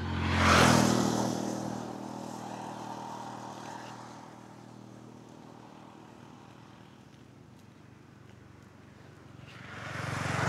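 Motor vehicles passing on the road: one goes by loudly about half a second in and fades away over a few seconds, and another approaches near the end.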